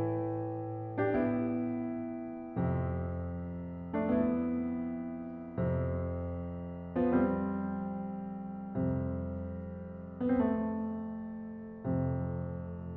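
Solo piano playing a slow piece: chords struck about every one and a half seconds, each left to ring and fade before the next.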